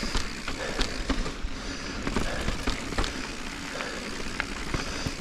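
Giant Reign mountain bike rolling over a dirt and rock trail: steady tyre noise with scattered clicks and knocks from the bike.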